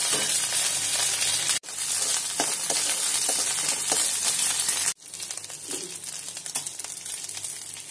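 Ginger and green chilli paste sizzling in hot oil and butter in a kadhai, stirred with a steel spoon. The sizzle breaks off briefly twice and is softer after the second break.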